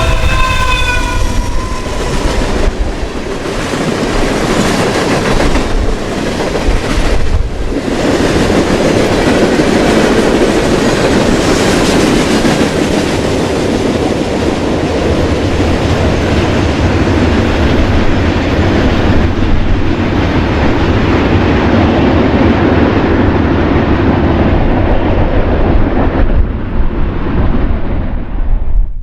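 Train passing close by on the Norfolk Southern main line, with loud rolling noise and wheels clacking over the rail joints. The end of its horn, dropping in pitch, fades out about a second in.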